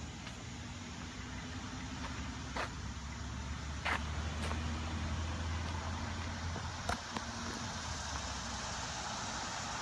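A motor vehicle's engine running with a steady low hum, joined by a few sharp clicks in the middle.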